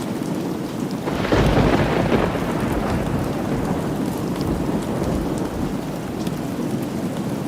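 Steady rain with a clap of thunder about a second in that rumbles away over the next few seconds.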